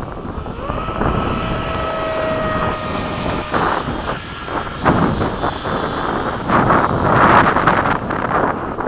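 Electric motors of an RC model airplane whining in flight. The whine rises about a second in, holds steady for a few seconds, then fades into the noise. Wind buffets the microphone throughout, with stronger gusts near the end.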